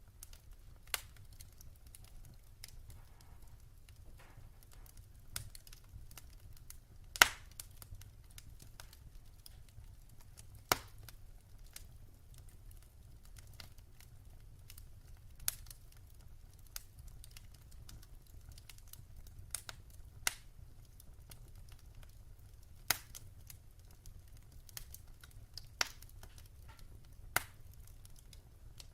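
Wood fire in a fireplace crackling, with sharp pops at irregular intervals, the loudest about seven seconds in, over a faint low rumble.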